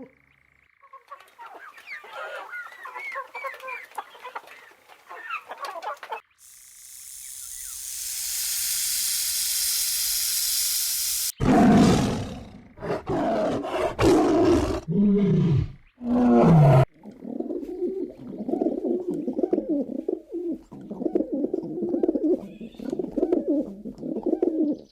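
A run of different animal calls, one after another: many quick bird-like chirps, then a steady rising hiss, then several loud calls with falling pitch, and finally a fast chattering of calls.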